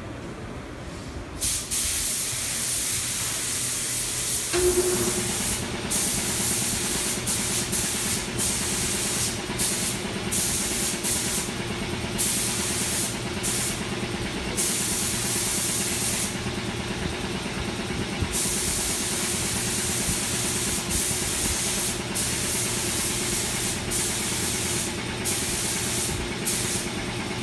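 Paint being sprayed in repeated bursts of hiss, stopping and starting many times. A steady motor hum joins about four and a half seconds in.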